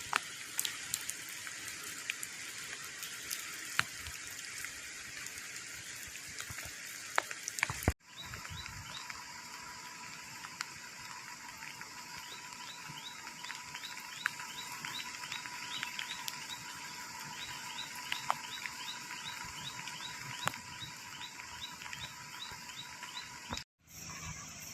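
Steady hiss of continuous rain, with scattered drops ticking. After a cut about 8 s in, a rhythmic high chirping call repeats a few times a second over the hiss.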